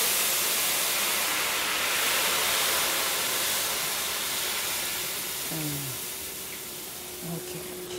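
Food frying in hot oil: a steady, high hiss of sizzling that slowly dies down.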